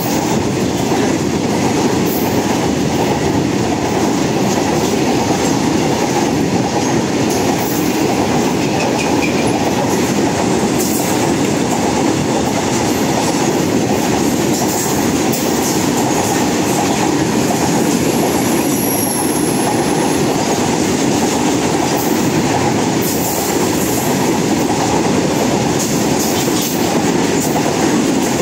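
A freight train of tank wagons running through at speed, close by: a steady, loud noise of steel wheels rolling over the rails as wagon after wagon passes.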